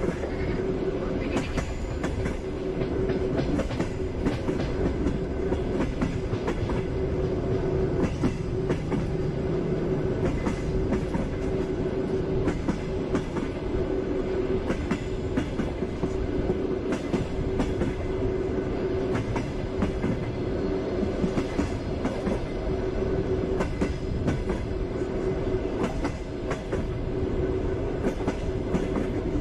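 Passenger train running along the track: wheels clacking over the rail joints against a steady rumble and a constant hum.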